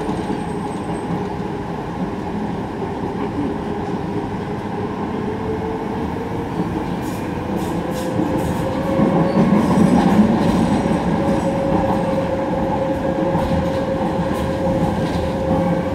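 Docklands Light Railway train running through a tunnel, heard from inside the car: a steady rumble of wheels on rails with a whine that rises slightly in pitch about halfway through. The rumble grows a little louder after that, with light clicking from the track.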